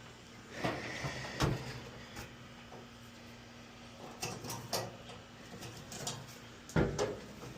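Scattered knocks and scrapes of a dryer's cabinet panels being handled and pried apart during disassembly, with the loudest knock near the end.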